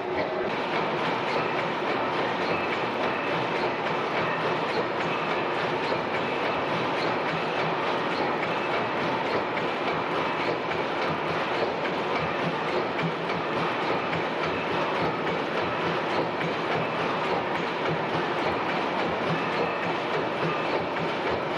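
Several 400 HP Snow tandem natural-gas engines running together under full load, pumping gas: a loud, steady, rhythmic mechanical clatter.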